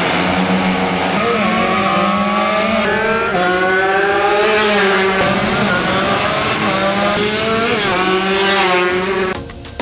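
Motorcycle engines revving hard as they accelerate down a drag strip. The pitch climbs and drops back several times at gear changes, over a steady lower engine note, and the sound cuts off just before the end.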